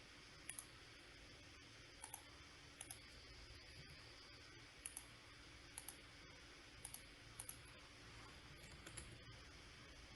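Faint, irregular clicks of a computer mouse, several coming as quick double clicks, over a low steady hiss.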